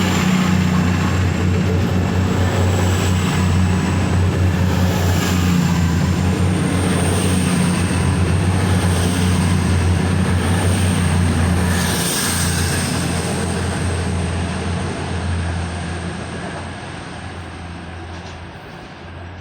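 Class 222 Meridian diesel multiple unit pulling away, its diesel engines running with a deep steady hum, fading in the last several seconds as the train draws off.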